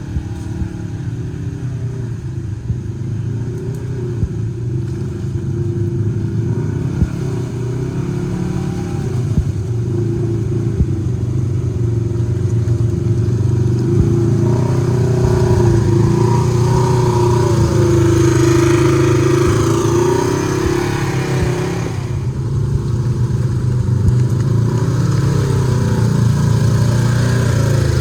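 Side-by-side UTV engine running under load, getting louder about halfway through, with a rising whine that eases off about three quarters of the way in.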